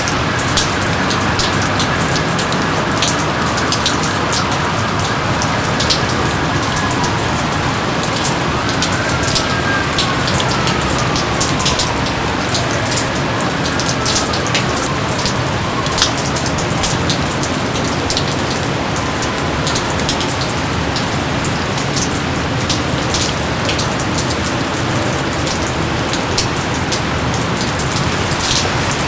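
Steady rain with many close, individual drops ticking sharply over the hiss. A few faint, slowly falling tones sound about a third of the way in.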